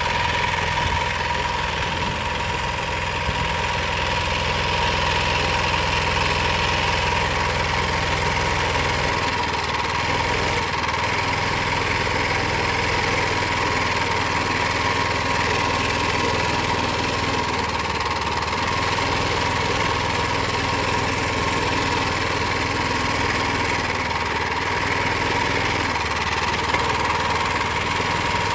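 Power Fist 79cc single-cylinder four-stroke engine on a homemade mini bike, running steadily while being ridden at low speed, with a steady high whine alongside. The engine note shifts about nine seconds in.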